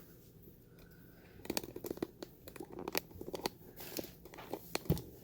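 Crinkling and crackling of craft materials being handled and moved, with a run of sharp clicks starting about a second and a half in and a single thump near the end.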